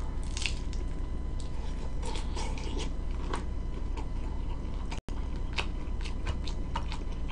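A person chewing and biting food, with many small scattered mouth clicks and smacks, over a low steady hum.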